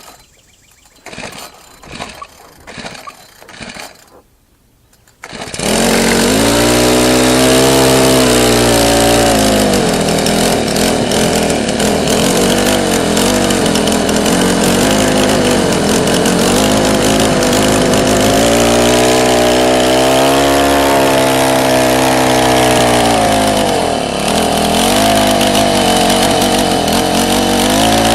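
Troy-Bilt four-stroke string trimmer engine being pull-started: several short pulls of the recoil starter, then it catches about five seconds in and runs loudly, its speed rising and falling with the throttle.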